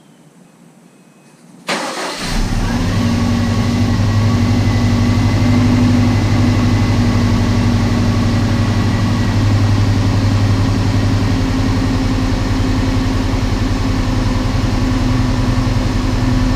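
Freshly rebuilt Subaru EJ257 turbocharged flat-four engine starting about two seconds in, catching almost at once, then idling steadily. This is its first run after the long-block rebuild, and the owner says it runs really rough at idle.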